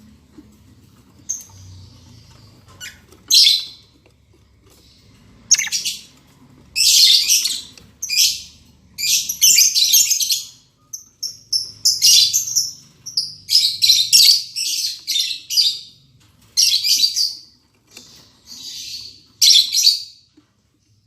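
Lovebirds chirping shrilly in rapid bursts of short calls with brief pauses, sparse at first and near-continuous from a few seconds in.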